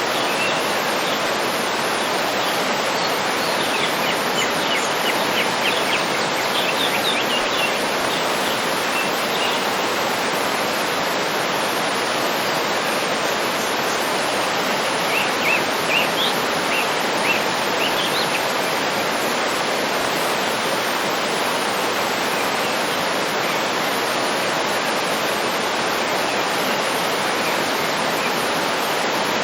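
Waterfall rushing steadily, with small birds chirping in short bursts of calls twice.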